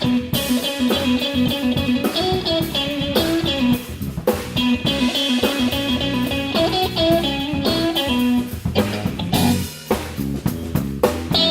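Live blues trio playing an instrumental passage: electric guitar picking single-note lead lines over bass guitar and drum kit.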